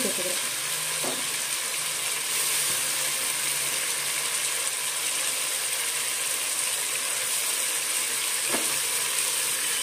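Onion and tomato masala sizzling steadily in oil in an aluminium pressure cooker on a gas stove, with fresh mint leaves just piled on top; an even frying hiss.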